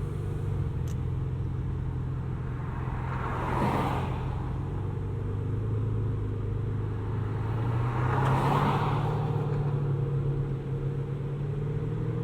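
Ferrari V12 engine idling steadily with a low, even hum. Two swells of rushing noise come and go, about four and eight seconds in.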